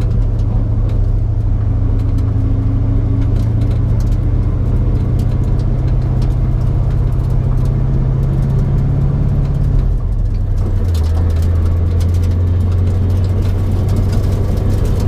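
1989 Mustang GT's 5.0 V8 running steadily, its note slowly rising, then dropping to a lower, steady drone about ten seconds in.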